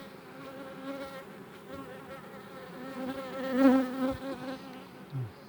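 Honeybees buzzing in a wavering, steady hum that swells louder a little past the middle, with a short buzz sliding down in pitch near the end.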